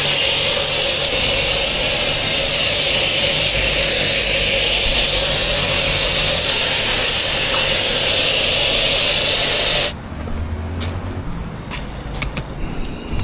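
Motorcycle riding at speed: heavy wind rush over the microphone covers the Honda CBR650R's inline-four engine running underneath. About ten seconds in, the wind rush cuts off suddenly, leaving the engine note and a few sharp clicks.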